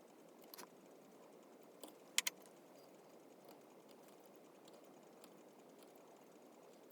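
Near-quiet workshop with a few small sharp clicks and taps of hand carving tools on wood, the loudest a quick double click about two seconds in.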